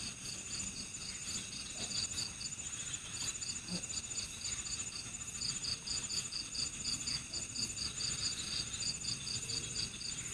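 Crickets chirping in a forest at night: one insect repeats short, high chirps at about four a second, pausing briefly a couple of times, over a steady, higher trill from other insects.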